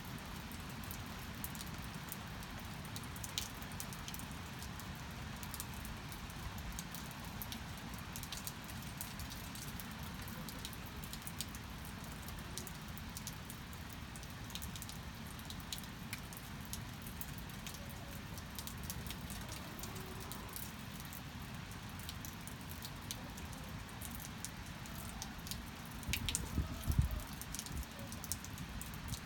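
Steady rain falling, with many separate drops ticking. About 26 seconds in, a short cluster of low thuds is the loudest moment.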